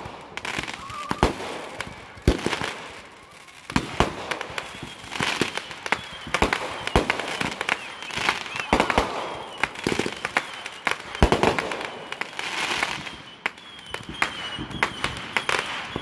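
Aerial fireworks launching and bursting: many sharp bangs at irregular intervals, over a continuous crackle and hiss.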